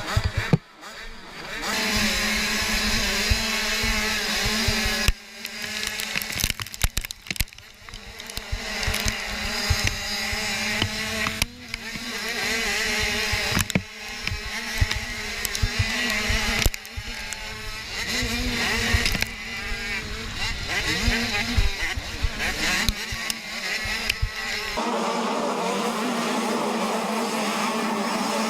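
Motocross bikes racing on track, their engines revving up and down with the throttle and gear changes. The sound shifts abruptly every few seconds. In the last few seconds it settles into a steadier, thinner engine buzz.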